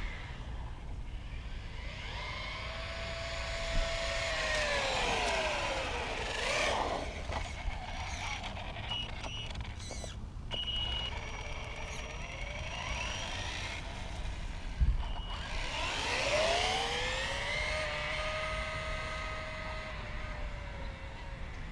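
Radio-controlled Axial Yeti Score trophy truck driving: its electric motor whines, falling in pitch as the truck slows around a third of the way in and rising again as it speeds up later, over the rush of its tyres on the ground.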